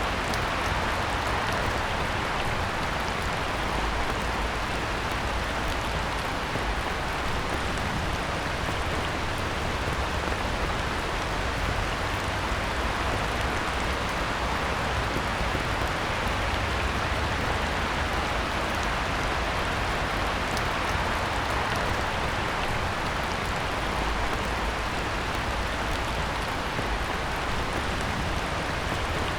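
Heavy, steady rain falling on a pond, a dense even hiss with scattered drop ticks.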